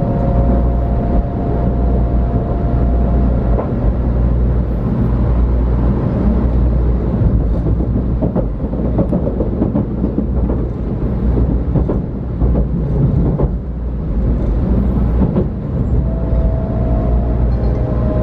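Steady running rumble inside a JR West 500 series Shinkansen car at speed. The whine of its Toshiba GTO VVVF inverter is heard as a few steady tones at the start, fades out about three seconds in, and comes back near the end.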